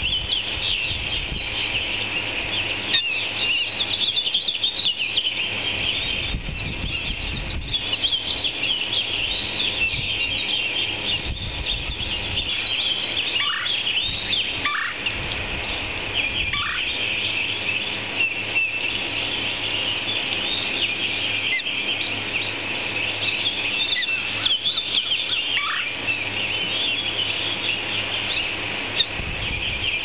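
Birds chirping continuously in a dense, high-pitched chorus of many overlapping calls, with a few short downward-sweeping calls standing out in the middle and near the end.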